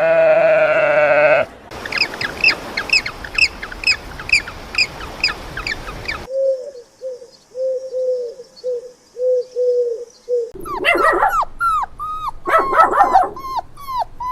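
Several animal calls one after another: a short loud call at the start, then rapid high chirps, about three a second, for four seconds, then a low call repeated about twice a second, then a dog yipping and whining from about ten seconds in.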